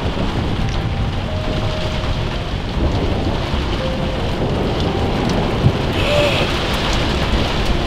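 Heavy rain drumming on the roof of a Fiat Ducato camper van, heard from inside: a dense, steady downpour of tapping drops over a low rumble.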